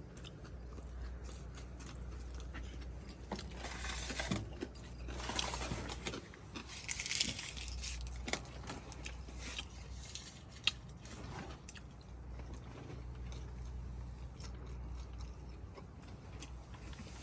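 A person chewing and biting food, with crunchy bites and a few small clicks, over a low steady hum.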